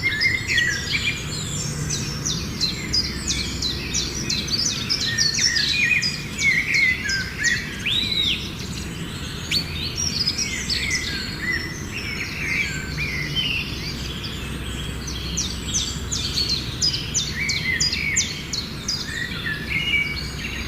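Several birds chirping and calling over one another, a dense run of short, varied chirps and whistles that never stops for long, over a steady low background rumble.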